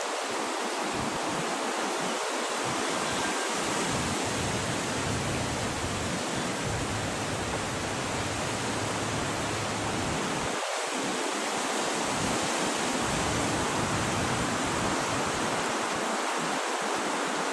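Wind blowing in a steady, even rush.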